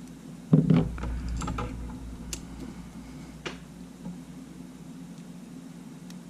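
Small clicks and taps of camera parts and tools being handled during reassembly, with one louder knock about half a second in and a couple of sharp clicks later.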